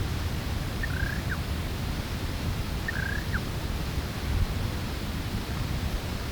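Black-winged ground dove calling twice, about two seconds apart: each call is a short, thin whistled phrase with a quick note at its end. A steady low rumble of wind runs underneath.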